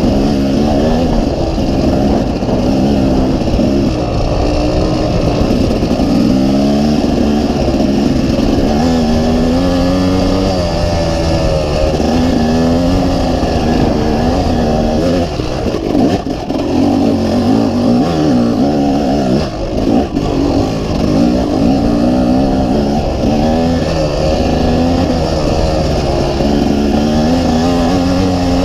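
Dirt bike engine running hard, its pitch climbing and falling again and again as the throttle is opened and closed, with two short lulls about halfway through.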